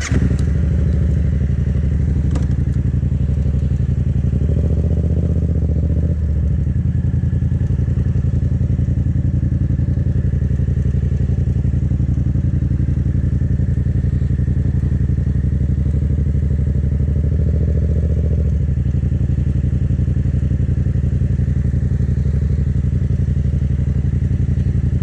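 Yamaha 700 cc motorcycle engine running at low, fairly steady revs while being ridden slowly through a tight cone weave and U-turn, with brief rises in revs about five seconds in and again near eighteen seconds.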